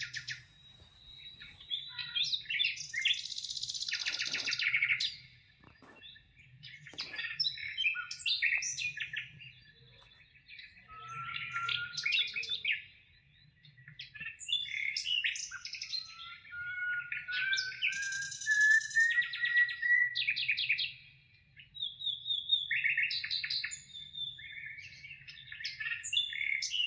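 Birds singing: bursts of chirps and trills with short gaps between them, and a long slowly rising whistled note partway through. A faint low hum runs underneath.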